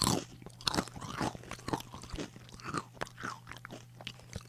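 Someone chewing crunchy chips with the mouth close to the microphone: an irregular run of crisp crunches, a few each second.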